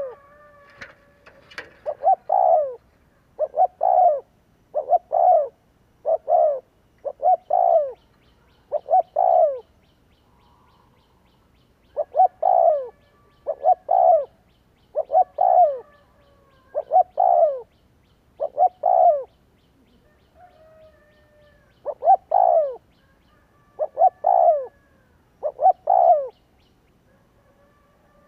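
Spotted dove cooing: short coo phrases repeated about once a second, with a couple of pauses of a second or two between runs.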